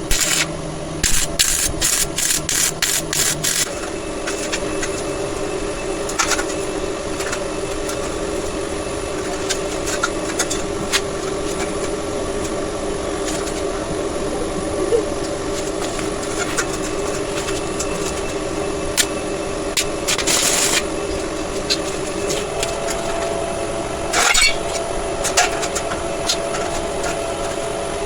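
Workshop metalworking noises over a steady machine hum: a quick run of about nine sharp metallic taps about a second in, then scattered clicks and two short scraping bursts later on.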